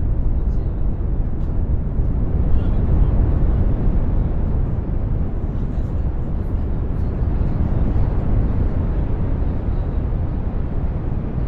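Synthesized brown noise: a steady, deep noise heaviest in the low end. Its level and shape shift slowly, with a few faint ticks high up.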